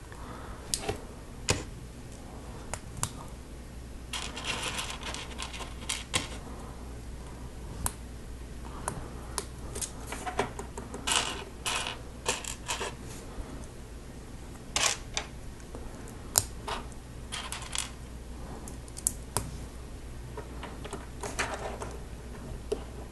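Small plastic Lego Technic pieces clicking and clattering as they are handled and pressed together, with several short spells of rattling as loose pieces are sorted through.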